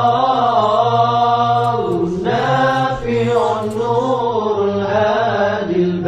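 Chanted Arabic devotional recitation: a voice drawing out long, bending melodic notes over a steady low drone.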